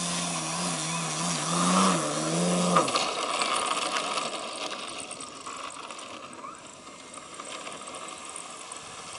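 Gasoline engine of a 67-inch Sbach 300 radio-controlled aerobatic plane running with small changes in pitch, then cutting off abruptly about three seconds in, leaving a faint hiss.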